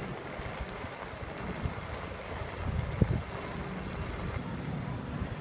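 Steady low rumble of vehicle or machinery noise, with a single knock about three seconds in.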